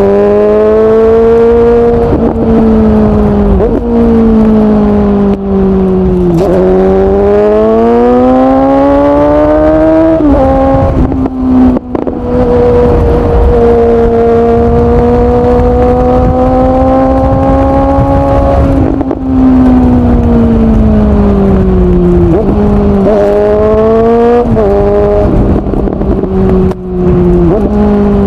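Suzuki GSX-S750 inline-four through a Yoshimura SQ11 exhaust with no dB killer and the catalyst removed, running loud and unmuffled on a ride. The engine revs rise and break off at several gear changes, then hold steady for several seconds in the middle. Near the end the revs drop and jump back up in short steps as the bike slows through the gears.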